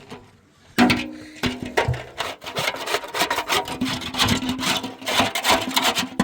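Rapid, irregular scraping and knocking, several strokes a second, starting about a second in, with a low ring under some of the strokes.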